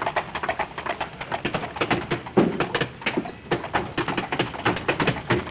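Horse's hooves clattering at a fast pace as it pulls a hansom cab: a quick, uneven run of many hoofbeats.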